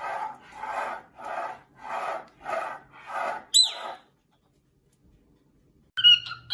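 Rhythmic rasping strokes, a little under two a second, like sawing or filing. They end about three and a half seconds in with a brief high shriek that falls in pitch, and near the end a new sound of high, whistle-like tones begins.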